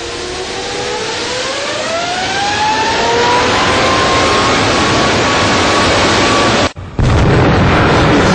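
Turbofan engine on a test stand running up, a loud roar with a whine rising steadily in pitch over the first few seconds and then holding. Just before the end the sound breaks off for a moment and comes back as a heavier, deeper roar.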